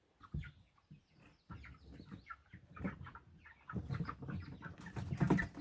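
A flock of four-week-old Cornish cross broiler chicks peeping and chirping in many short, scattered calls. Low thumps and rumbling run under them, louder in the second half and loudest near the end.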